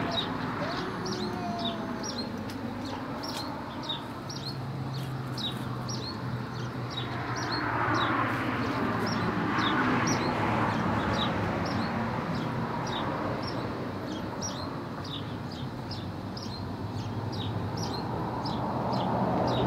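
A bird chirping over and over, short high chirps about twice a second. In the middle a car passes on a nearby road, swelling up and fading away.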